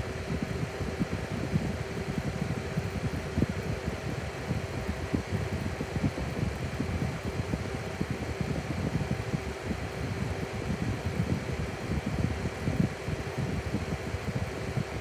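Massey BF-601 6-inch box fan running steadily: a constant motor hum over the rush of its air, with low flutter from the airflow.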